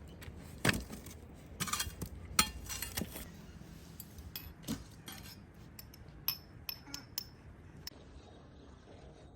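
Kitchenware being handled: a series of separate clinks and knocks, the loudest in the first few seconds, with a few short ringing clinks about six to seven seconds in.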